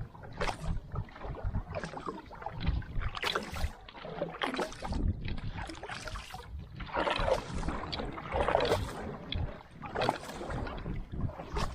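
Paddle strokes in the water from a one-person rudderless outrigger canoe (V1), a splash roughly once a second over the wash of water along the hull.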